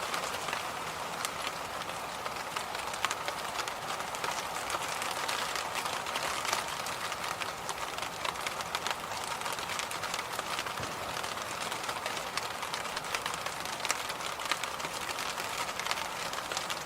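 Electric fan running steadily: a continuous even rushing noise, with frequent faint irregular clicks.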